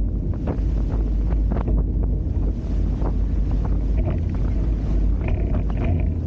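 Wind buffeting the microphone of a camera aboard a catamaran under sail, a heavy steady rumble, with repeated short splashes and slaps of water against the hulls.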